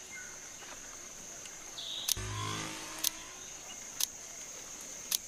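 Jungle insects, crickets or cicadas, keeping up a steady high-pitched drone. Four sharp clicks come about a second apart, and a brief low sound follows the first click, a little after two seconds in.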